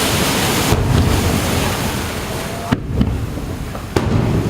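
Surf washing on the beach with wind on the microphone, and two sharp bangs, a little under three seconds in and about a second later, from aerial firework shells bursting.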